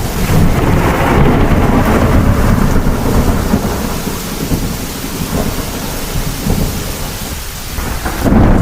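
Heavy thunderstorm: steady rain with rolling thunder. A long low rumble is loudest over the first few seconds and dies away through the middle, and a new loud rumble breaks in near the end.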